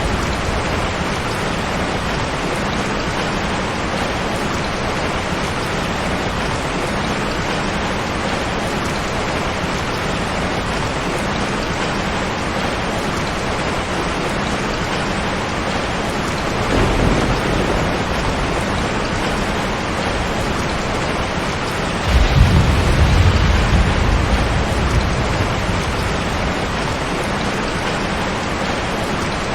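Steady heavy rain falling, with low thunder rolling twice: a short rumble a little past halfway and a louder, longer one about three-quarters through.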